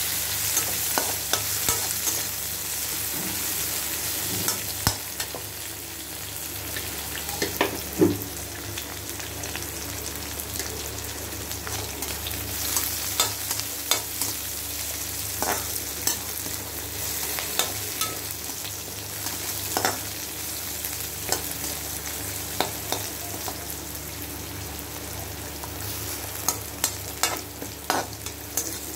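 Sliced onions and whole spices sizzling in hot oil in a metal kadai while a spatula stirs them, scraping and knocking against the pan in irregular sharp clicks over a steady hiss.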